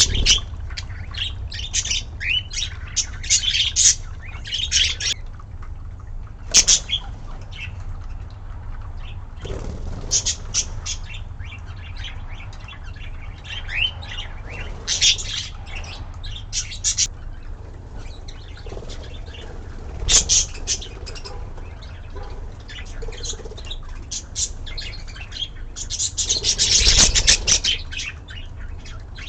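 Budgerigars chirping and chattering in short, irregular bursts of high warbles, with a louder, noisier burst lasting about two seconds near the end, over a steady low hum.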